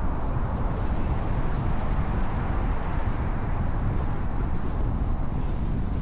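Steady road noise of a car cruising on a rain-wet expressway: tyres hissing on the wet surface over a low rumble, with no separate events.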